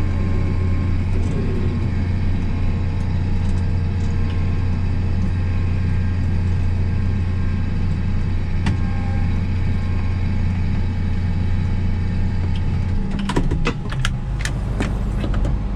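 Case IH 1660 combine's diesel engine running steadily under way, a strong low drone. About thirteen seconds in the engine note drops and a few sharp knocks follow.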